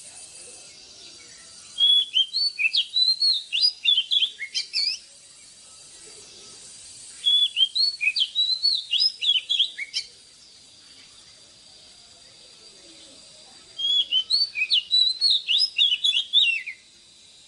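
Oriental magpie-robin singing: three phrases of quick, varied notes, each lasting about three seconds, with pauses between them.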